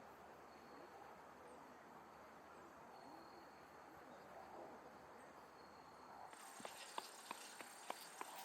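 Faint outdoor quiet with insects trilling in thin high tones. About six seconds in, a steadier high-pitched trill starts and several light ticks follow.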